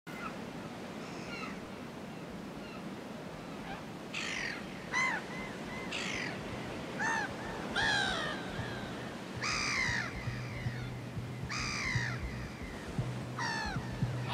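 Harsh, squawking bird calls, each a short falling cry, repeated every second or so. A low steady hum comes in about halfway through.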